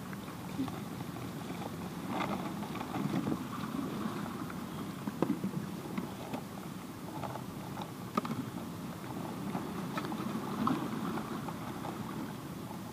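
Steady noise of heavy surf and wind at the shore, with scattered small clicks and knocks close by.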